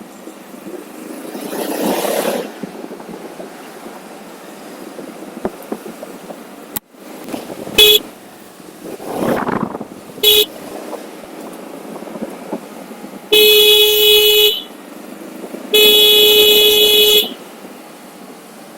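A vehicle horn honking four times: two short toots, then two long blasts of over a second each, over steady wind rush and the swell of traffic passing.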